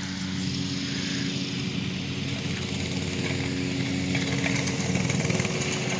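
Small Coleman minibike engine running steadily at a constant speed, growing slightly louder over the few seconds.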